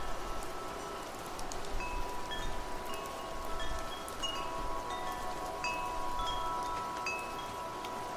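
Wind chimes ringing at random in the wind, overlapping metallic tones sustaining over a steady hiss of wind and light rain.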